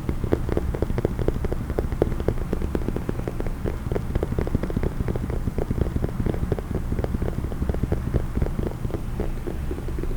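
Fast, uneven tapping on a case, many short sharp taps a second, over a steady low rumble.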